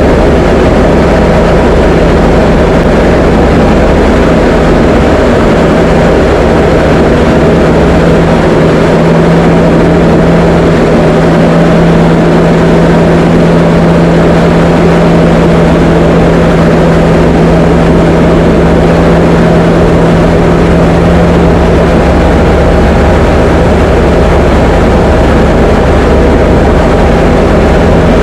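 Diamond DA20 light aircraft's piston engine and propeller droning steadily in flight, with a constant low hum and no change in pitch.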